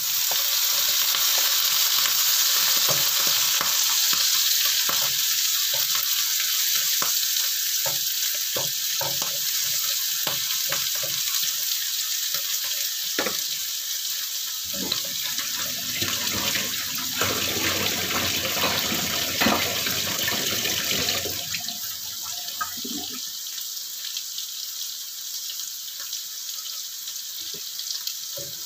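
Cubed long eggplant, soaked in water and drained beforehand, sizzling loudly in hot oil in a wok alongside frying tempeh, with scattered pops and crackles. The sizzle is strongest just after the eggplant goes in and slowly dies down.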